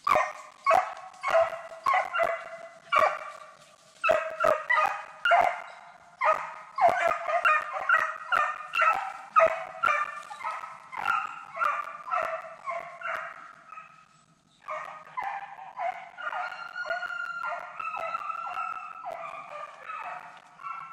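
Deer-hunting hounds barking in a rapid run, about two to three loud barks a second. After a short break about two-thirds of the way in, the barking resumes quieter and more continuous, with several dogs overlapping.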